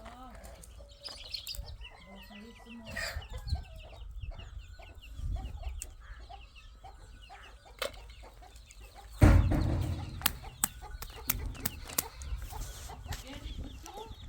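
Chickens clucking, with a loud thump about nine seconds in.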